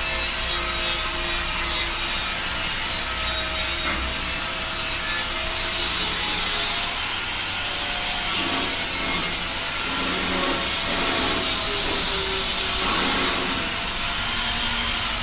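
A power tool grinding or abrading stainless steel: a steady rasping noise with a faint motor whine running through it.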